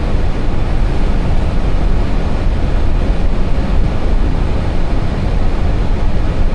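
Steady rushing and low rumble of airflow and engines inside an Airbus A320 cockpit on final approach.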